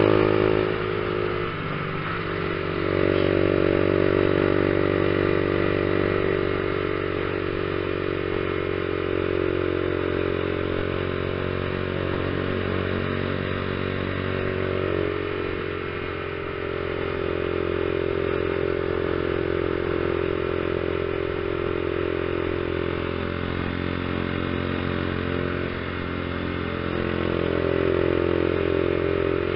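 Honda CG 150 Fan ESDi motorcycle's single-cylinder four-stroke engine running under way at a steady road speed. The engine note dips briefly and picks back up about three times.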